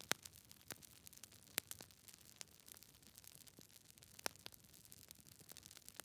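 Wood fire crackling in a fireplace: a few sharp, scattered pops from the burning logs over a faint steady hiss, the loudest just after the start, about a second and a half in, and just past four seconds.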